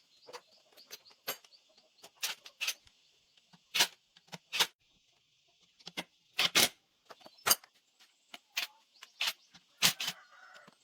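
A series of sharp, irregular knocks and clicks, over a dozen, over a faint steady high hiss.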